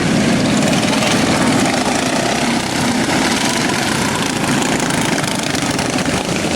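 Engines of modified racing riding lawn mowers running, a loud, steady mechanical noise.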